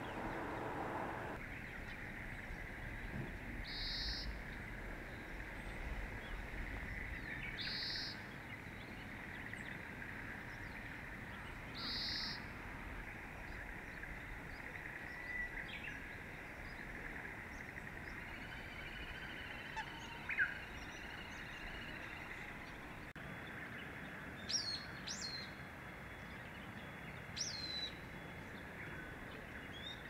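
Wild birds calling: a short high call repeated three times about four seconds apart, then a few sharp high chirps in the second half, over a steady background hiss.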